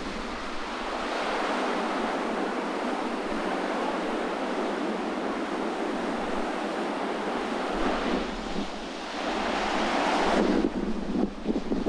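Sea surf washing against the shore, with the rush swelling about a second in and again near the end before dropping off suddenly. Strong wind gusts buffet the microphone throughout.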